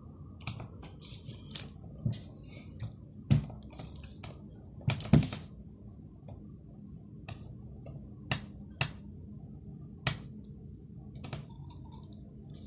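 Hands handling nylon trimmer line and a brush cutter's line head: irregular clicks, taps and plastic rustles, with a couple of louder knocks about three and five seconds in, over a steady low hum.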